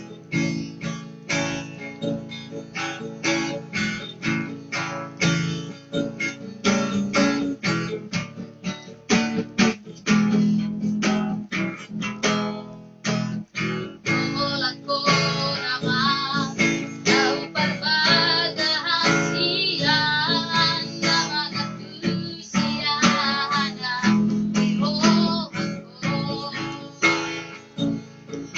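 Acoustic guitar being strummed, with a high singing voice coming in about halfway through.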